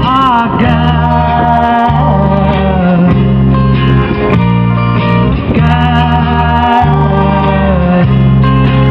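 Live band music: a sung vocal holding long notes over strummed guitar and a steady bass line.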